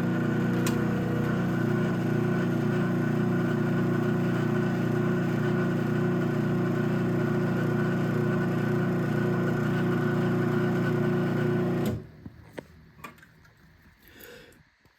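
Craftsman 1/2 hp garage door opener running steadily as it raises the door, a constant motor hum that stops abruptly about twelve seconds in. A few faint clicks follow.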